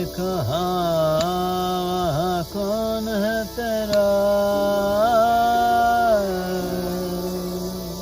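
Solo voice chanting in long held notes with gliding, ornamented bends between them, part of the soundtrack music; the last note fades out near the end.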